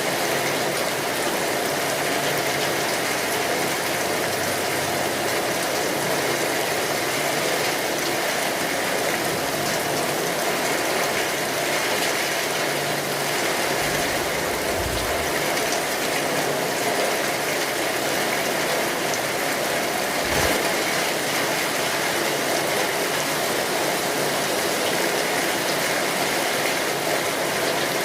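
Steady rainfall, an even hiss of rain, with two brief low rumbles, one about halfway through and a shorter one a few seconds later.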